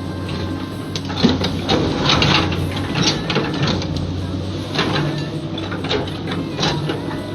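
Komatsu long-arm excavator's diesel engine running steadily, with irregular knocks and clatter from the working arm and bucket.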